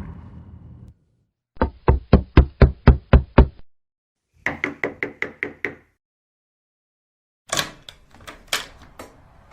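Knocking on a door: a rapid run of about nine heavy knocks, then a second run of about seven lighter, higher-sounding knocks, each at about five a second. Near the end come a few irregular sharp, bright clicks.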